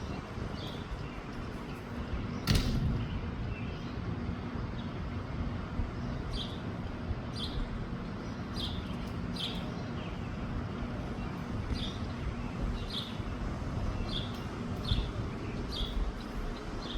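Wind rumbling on the microphone, with a small bird repeating a short high chirp about once a second, more steadily from about six seconds in. A single sharp knock comes a couple of seconds in.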